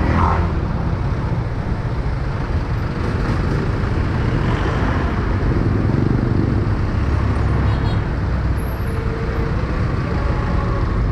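Steady road traffic noise, with vehicle engines running throughout.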